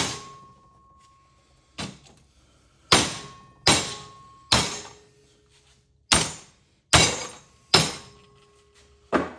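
Repeated hammer blows on a stuck metal part of an old ceiling fan, about nine sharp strikes at uneven intervals, several leaving a short metallic ring. The blows are meant to knock the locked piece loose.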